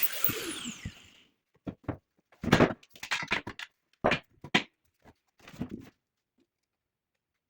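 A power tool's high whine drops in pitch and dies away in the first second as the tool spins down, followed by a string of separate knocks and clunks from workpieces or tools being handled.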